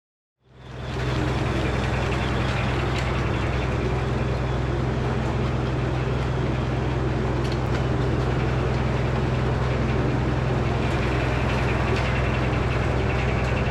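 Engine of a Frick sawmill running at a steady speed, a constant low hum with a rumbling wash above it, fading in about half a second in.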